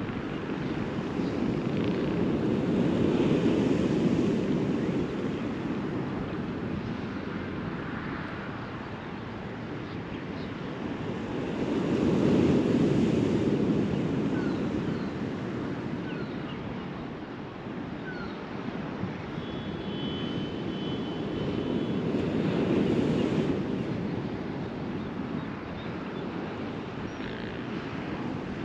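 Surf breaking on a beach: a steady wash of waves that swells and fades three times, roughly every nine seconds.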